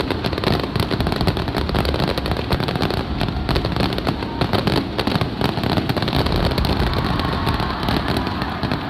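Aerial fireworks going off in quick succession: a dense, continuous crackle of pops and bangs.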